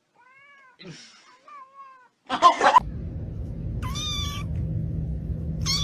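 A domestic cat meowing twice, about two seconds apart, over a steady low hum, with a few faint short calls and a brief loud noise earlier on.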